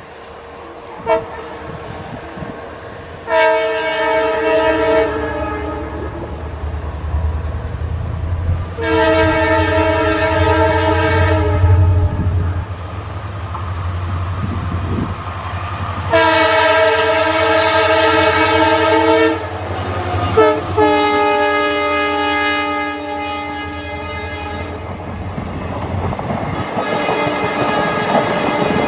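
Diesel locomotive horn sounding about five long blasts, each one to three seconds, over the steady low rumble of the train.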